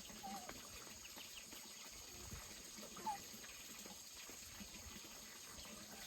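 Faint outdoor ambience: a steady high insect drone under light hiss, with two short bird calls, the louder one about three seconds in.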